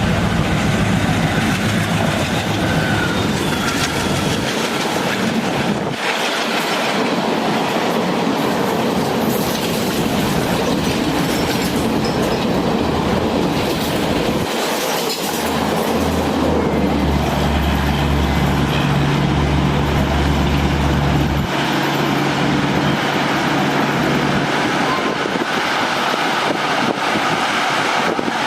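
Express train passing at high speed, a continuous loud rush of wheels on rails with coaches clattering over the track. A low steady engine hum sits under it at the start and again for several seconds about halfway through.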